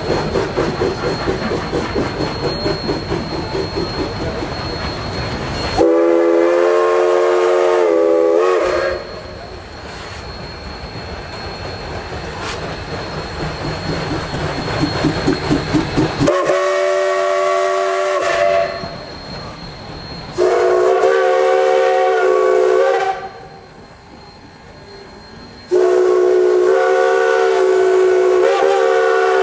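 Narrow-gauge steam locomotive working, its exhaust chuffing in a steady beat that quickens and grows louder. It sounds four whistle blasts, the last the longest.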